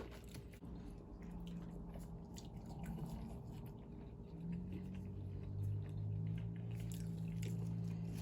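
Close-miked chewing and biting: wet mouth clicks and smacks of someone eating. A low steady hum runs underneath and grows louder about four and a half seconds in.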